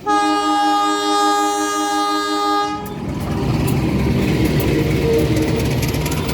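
Diesel locomotive air horn sounding one long blast of several notes at once, cutting off about three seconds in, followed by the steady low rumble of the passing locomotive.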